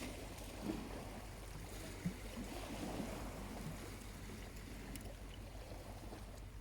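Small waves lapping gently at the shore in soft, uneven swells, with a few faint ticks from a charcoal fire.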